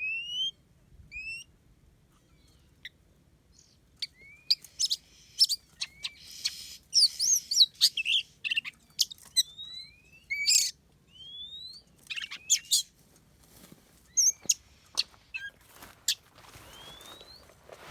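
Oriental magpie-robins calling: a string of short rising whistles, with a harsh, noisy chattering burst and sharp clicks in the middle stretch.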